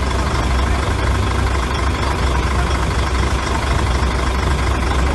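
Heavy diesel engine of earthmoving machinery running steadily, with a deep, even sound and no breaks.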